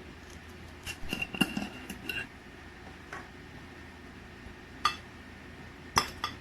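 Kitchenware clinking and knocking. A quick cluster of light clinks with a short ringing tone comes about a second in, then single sharp knocks follow about three, five and six seconds in.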